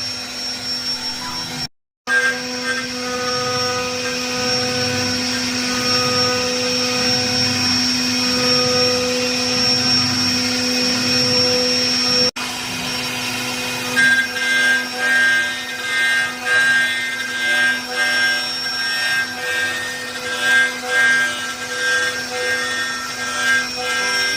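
CNC wood lathe running: a steady motor whine and hum with the cutter scraping the spinning wood, turning into a rhythmic pulsing about fourteen seconds in. The sound drops out briefly about two seconds in.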